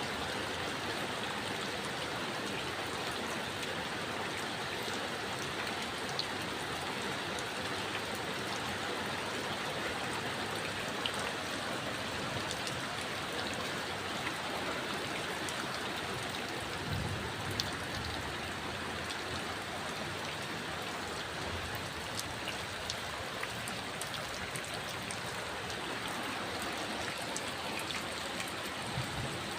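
Steady heavy rain falling, an even hiss with scattered drops ticking on surfaces.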